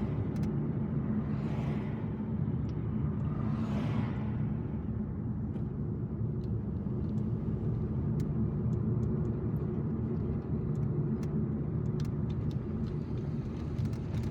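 Car driving, heard from inside the cabin: steady engine and road rumble, with other vehicles whooshing past just before the start, about 2 seconds in and about 4 seconds in, then scattered light clicks later on.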